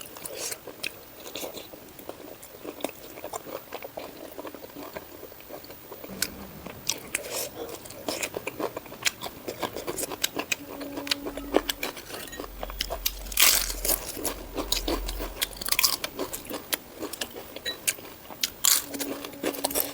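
A person eating close to the microphone: chewing, with a run of sharp crunches and mouth clicks from biting into crisp food, thickest in the middle.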